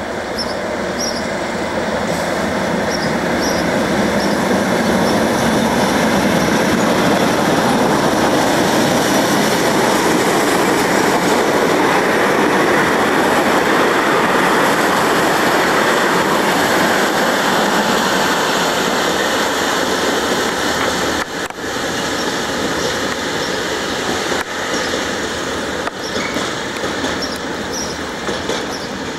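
Diesel locomotive passing at the head of a heavy train of oil tank wagons. The sound builds to its loudest as the locomotive goes by, then the wagons clatter and knock over jointed rail and fade away as the train draws off.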